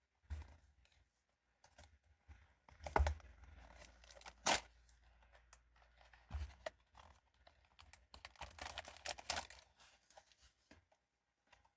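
Pop Mart blind-box packaging being handled and opened: scattered taps and clicks with short bursts of tearing and crinkling, and a longer crinkling stretch about two-thirds of the way through.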